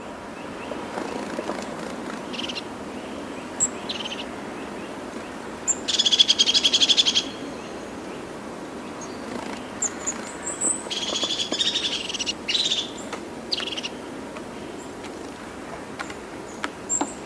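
Wild birds calling: rapid, buzzy trills, the loudest about six seconds in and another around eleven seconds, with short high notes in between, over a steady background hiss.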